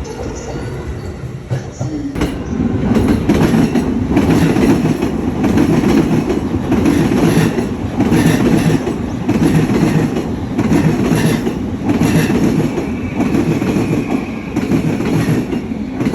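Train running on the rails, its wheels clattering rhythmically over the rail joints, getting louder about two seconds in.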